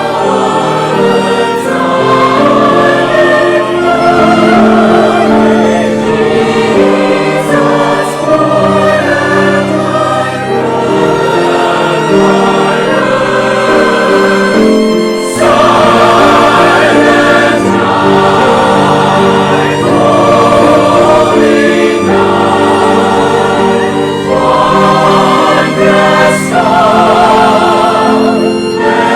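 A choir singing with orchestral accompaniment, held notes with vibrato over a steady instrumental bed.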